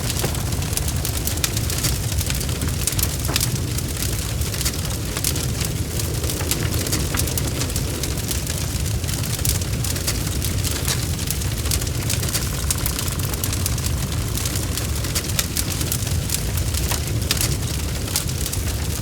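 Wood fire burning in a fireplace, crackling with frequent small, irregular pops over a steady low rumble.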